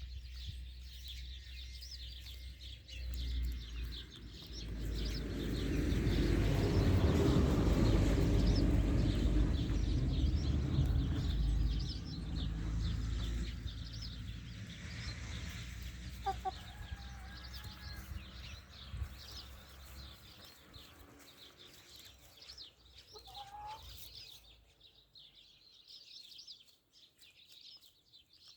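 Free-range chickens clucking, with a busy high chirping throughout and a few short separate calls in the second half. A low rumble swells in about four seconds in, is loudest in the middle and fades out before the end.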